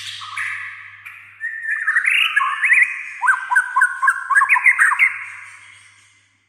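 White-rumped shama (murai batu) singing: a few drawn-out whistled notes, then a fast run of sharp chirps that fades out near the end.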